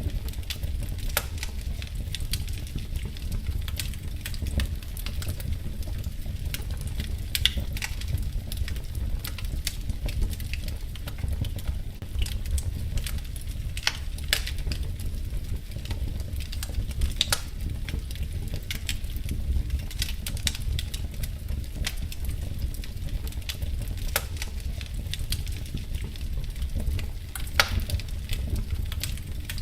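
Wood fire burning in a fireplace: a steady low rumble with frequent sharp pops and snaps of crackling at irregular intervals.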